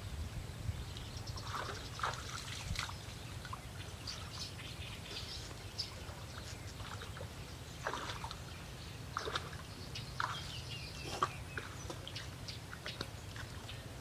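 Birds chirping in short, scattered calls over a steady low rumble, with a few faint splashes of shallow water.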